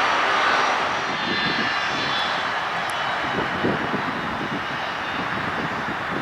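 Boeing 757-200 jetliner's engines running: a steady rushing noise with a faint high whine, easing slightly, with low rumbling coming in about halfway through.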